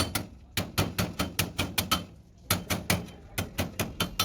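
Hammer blows on sheet metal, panel-beating during cab bodywork: quick runs of about five sharp, ringing strikes a second, with short pauses between runs.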